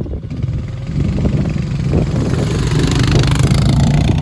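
Dirt bike engine running under throttle. It grows louder from about a second in and is loudest near the end.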